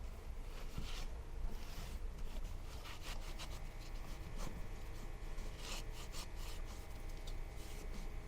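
Irregular rubbing and scraping strokes worked by hand on an old wooden window frame.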